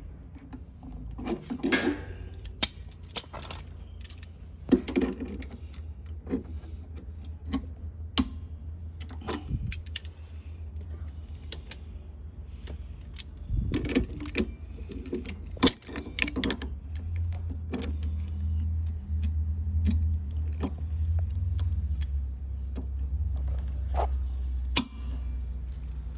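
Metal hand tools and fittings clinking and knocking at irregular intervals, over a low steady hum.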